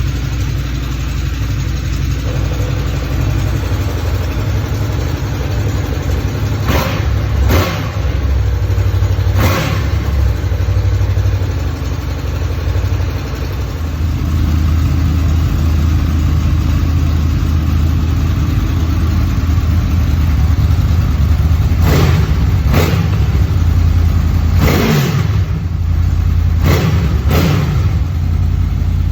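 Honda Crossrunner VFR800X's V4 engine idling through its exhaust, blipped into short revs that rise and fall back: a few about a third of the way in, and a quicker series near the end.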